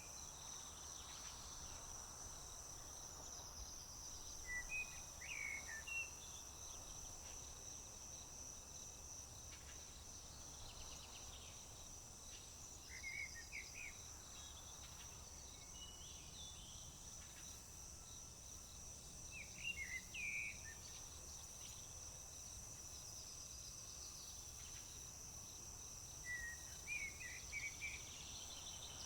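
Crickets trilling steadily and high-pitched, while a songbird sings a short phrase four times, about every seven seconds.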